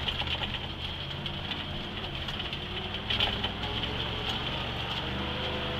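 1982 GMC two-wheel-drive pickup's engine running under load on a hill climb, with a steady rushing hiss over it that is typical of tyres spinning in loose, slippery dirt.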